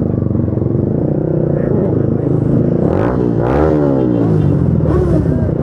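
Motorcycle engines running together, one dipping then rising in pitch about halfway through.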